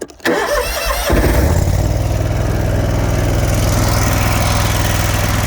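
Kawasaki FX V-twin engine of a Hustler X-ONE zero-turn mower being started: a brief crank, catching about a second in, then running steadily and smoothly with no misfire.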